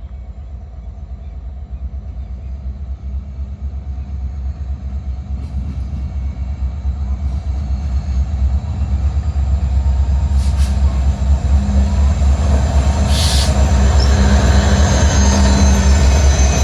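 Diesel locomotives and train running, a low rumble that grows steadily louder as the train gets under way, with two short high hisses about ten and thirteen seconds in.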